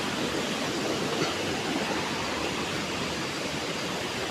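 Steady rushing of flowing water, an even roar without breaks.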